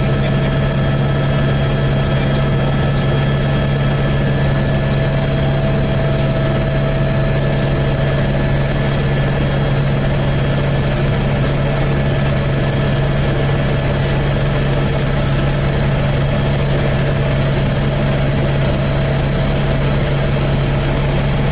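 Helicopter in flight, running steadily: a constant low drone with several steady higher whining tones over a rushing noise.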